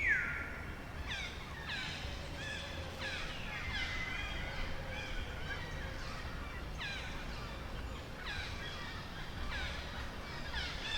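Forest animal calls: many short, high calls that slide downward in pitch, several overlapping at once. One clear call right at the start falls and then holds its pitch.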